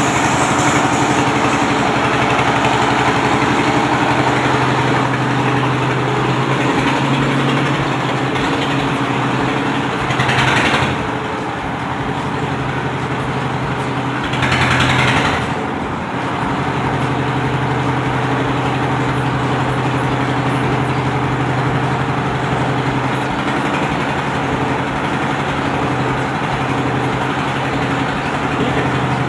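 Diesel engine running steadily, powering a silage packing machine. Two short bursts of hiss come about ten and fifteen seconds in, and the engine's note dips between them.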